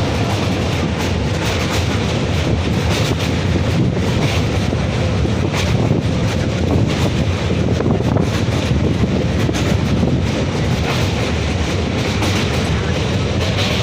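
Passenger train running along the track: a steady rumble with clicks and clatter from the wheels on the rails.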